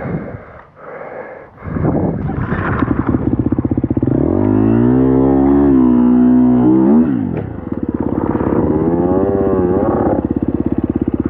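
Dirt bike engine revved up and held high for a few seconds, then dropping, revving again briefly, and settling into a steady, even pulse near the end.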